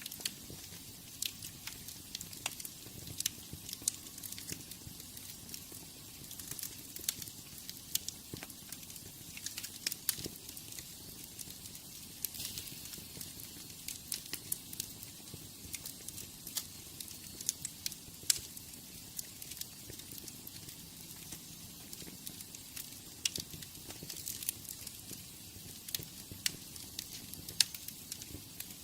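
Wood fire in a fireplace crackling: irregular sharp pops and snaps over a steady hiss and low rumble of the flames.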